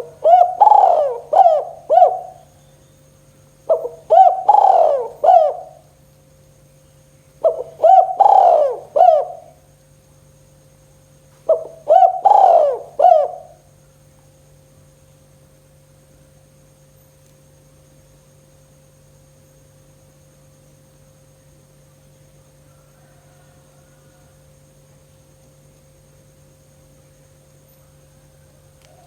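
Spotted dove (tekukur) cooing its two-beat 'kuk 2' song: four phrases of several coos each, about four seconds apart. The singing stops about 14 seconds in, leaving only a faint steady hum.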